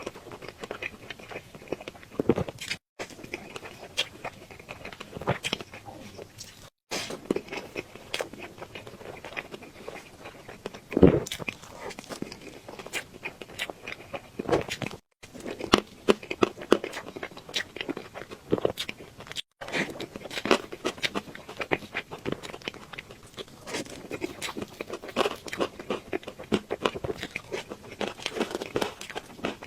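A person eating cake close to the microphone: steady chewing and biting with many small wet clicks and crackles. The sound drops out completely four times for an instant.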